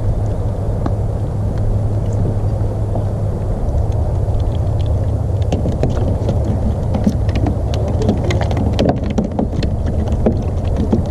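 Wind and open-water noise rumbling steadily on the microphone of a kayak at sea. From about halfway in, many quick small splashes and spatters of water come on top.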